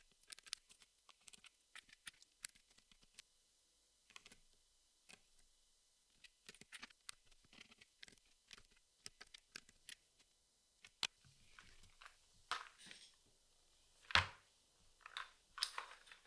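Cardboard jigsaw puzzle pieces being handled and pressed into place: many light clicks and taps with brief rustles, and one louder knock about 14 seconds in.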